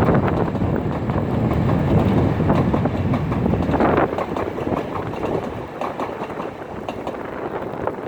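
A train running along the rails, its rumble slowly fading as it moves away, with wind on the microphone.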